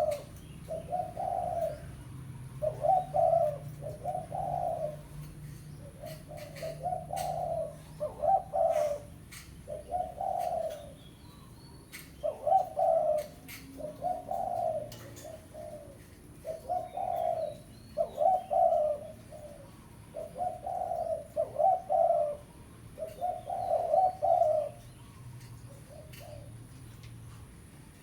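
Spotted dove cooing over and over in its lure call. Each low phrase of a few coos comes about every two seconds, and they stop a little before the end, with faint clicks in the background.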